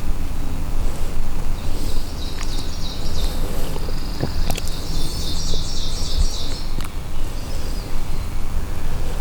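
A small songbird singing rapid trilled phrases for several seconds, over a steady low rumble.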